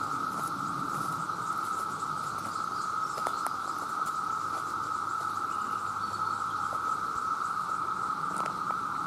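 Chorus of a great many male cicadas calling together, a steady unbroken high drone that holds one pitch with no rise or fall, with a few faint ticks in it.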